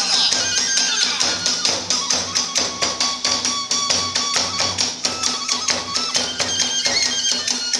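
Iwami kagura ensemble playing: rapid, steady strokes of drums and small hand cymbals (tebyōshi) under a held, shifting melody on the transverse bamboo flute.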